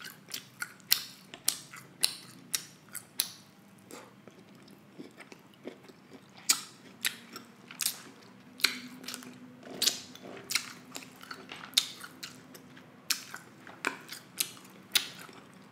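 Close-miked chewing of buttery seafood boil: wet mouth clicks, lip smacks and finger licking, coming irregularly and sometimes several a second.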